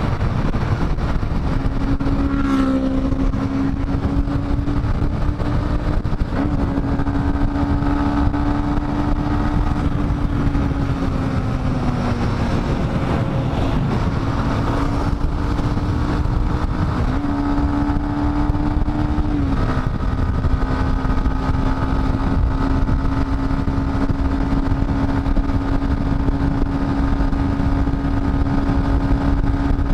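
Dafra Next 250's single-cylinder engine running at a steady cruise on the road, under heavy low wind rumble. Its pitch steps up and back down a couple of times as the throttle changes.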